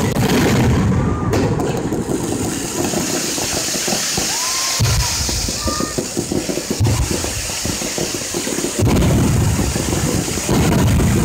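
Fireworks bursting: a run of low booms and rumbles over a continuous noisy wash.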